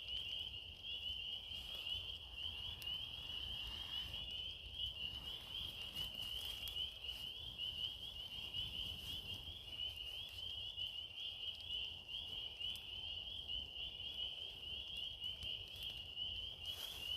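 A dense chorus of frogs calling: a steady high trilling that runs on without a break, with a few faint clicks.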